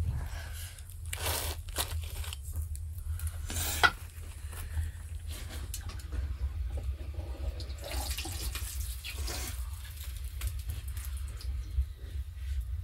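Boolani frying in hot oil in a pot: sizzling, with sharp clicks of metal tongs against the pot, the loudest a little before four seconds in. A steady low rumble runs underneath.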